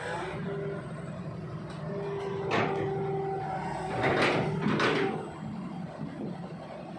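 Heavy diesel vehicle engine running steadily, with three short loud hisses of released air, the first about a third of the way in and two close together past the middle.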